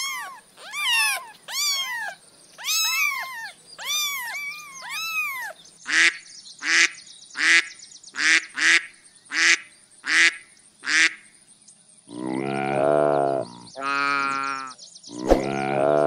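A kitten mewing repeatedly in high calls that rise and fall, then Canada geese honking in about nine short, harsh calls, then about three long, deep calls from a large animal.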